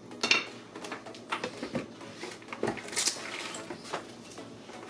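Scattered light clicks and knocks, roughly one a second, over faint kitchen room noise.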